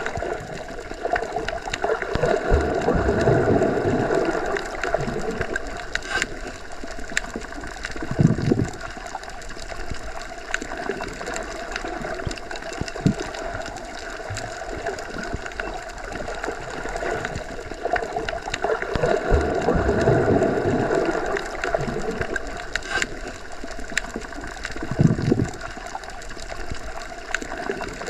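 Underwater ambience, as heard with the ears submerged in a pool or lake: a steady wash of water noise that swells twice, slowly, with a couple of brief low surges and scattered small clicks.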